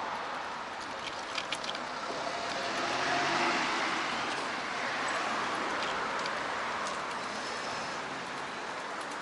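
Road traffic with a car passing, its sound swelling a few seconds in and then fading. A few sharp clicks come about a second and a half in.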